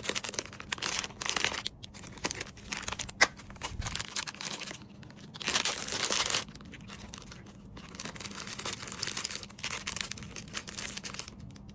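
Packaging crinkling and rustling as small items are handled and packed, in irregular bursts with a sharp click about three seconds in.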